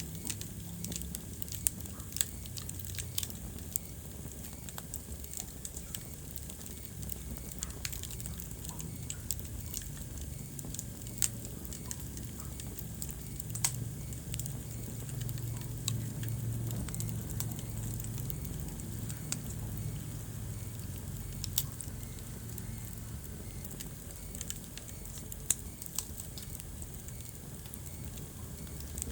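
Wood fire crackling in a fireplace, with irregular sharp pops over the low steady rumble of the flames.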